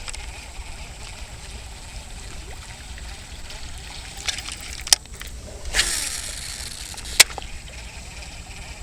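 Wind rumbling on the microphone, with a few sharp clicks and a brief splash of water about six seconds in.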